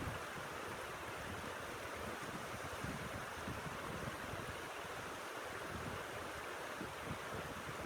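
Steady blizzard wind hissing, with an uneven low rumble of gusts buffeting the microphone.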